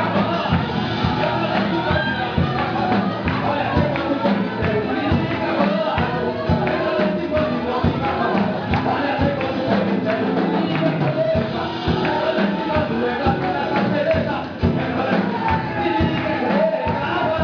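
Live gospel worship music with a steady beat and a rattling tambourine, voices singing along.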